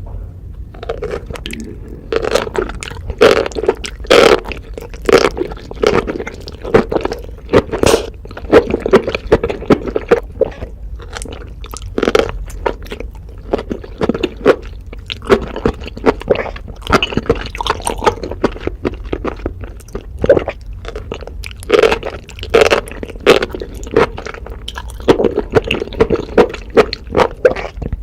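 Close-miked chewing of enoki mushrooms: a quick, steady run of short, sharp wet mouth sounds, several a second.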